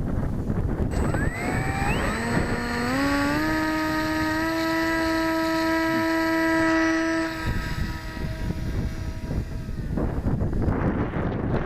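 Electric RC airplane's motor and propeller whining, climbing in pitch in steps as it throttles up, holding a steady high whine for a few seconds, then fading away, with wind buffeting the microphone.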